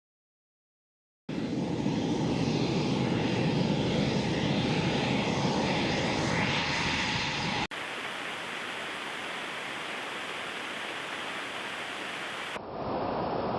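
Aircraft engine noise, starting after about a second of silence as a steady, deep roar. Cut suddenly about halfway through to a thinner, hissing roar, with another abrupt change near the end.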